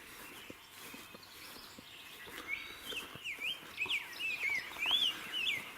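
A songbird singing: a quick run of short whistled notes sliding up and down, starting about two and a half seconds in and going on to the end.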